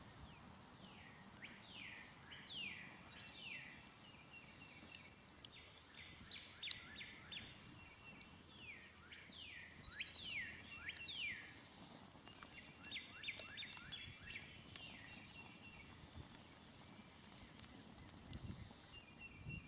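Songbirds singing, faint: many quick down-slurred chirps, with two runs of rapid repeated notes partway through.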